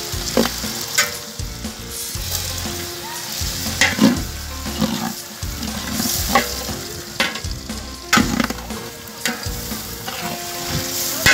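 Sliced onions and tomatoes sizzling in hot oil in a large metal pot, stirred with a metal ladle that scrapes against the pot in irregular strokes.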